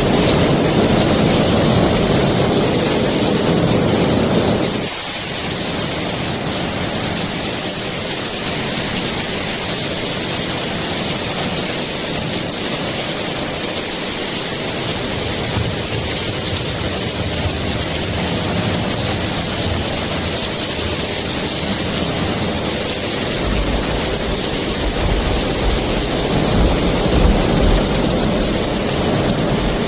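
Steady heavy rain with a constant hiss. A low rumble underneath stops about five seconds in and comes back near the end.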